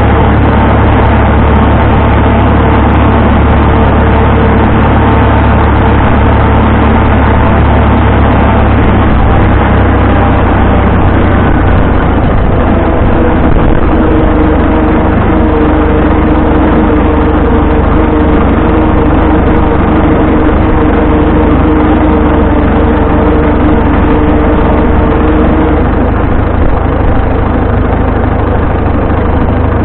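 Vintage farm tractor engine running steadily and loud, with a low rumble and a slight change in its tone about twelve seconds in.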